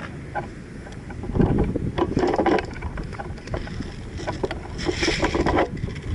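Wind rumbling on the microphone, with two louder stretches of rustling full of small clicks, about a second in and again near the end.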